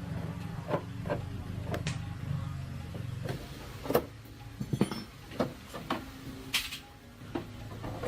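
Irregular metallic clinks and knocks of hand tools working on a motorcycle, over a steady low hum.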